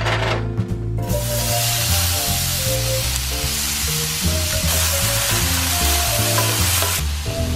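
Diced onion and garlic frying in hot oil in a cast iron skillet, stirred with a wooden spoon: a dense sizzle that starts suddenly about a second in and eases near the end.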